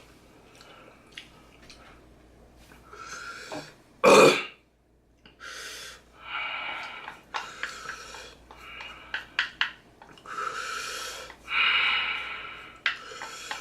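A man breathing hard through his mouth in repeated loud huffs and hisses, from the burn of eating 2x Spicy instant noodles. About four seconds in there is one short, much louder huff, and a few small clicks are heard among the breaths.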